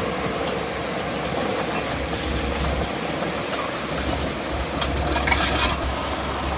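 Heavy diesel earthmoving machinery running with a steady low rumble, with a brief hiss about five seconds in.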